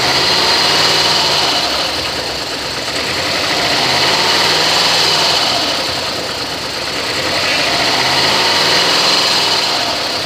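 2004 Toyota Sequoia's 4.7-litre V8 idling, its hum swelling and easing slowly every few seconds.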